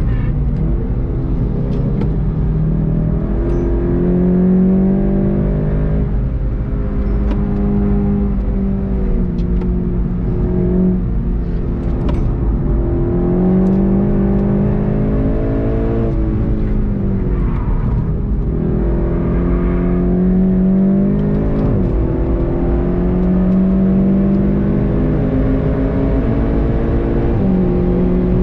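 VW Golf 7.5 GTI TCR's turbocharged 2.0-litre four-cylinder engine driven hard on track. Its pitch climbs through each gear and falls back at upshifts and braking, again and again, over a steady rush of road noise.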